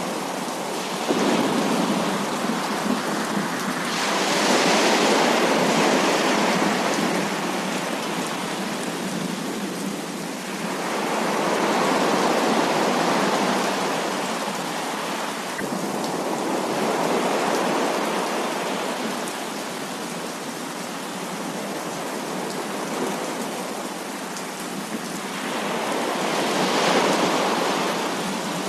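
Heavy rain falling steadily, with thunder rumbling in several long swells that come and go every few seconds.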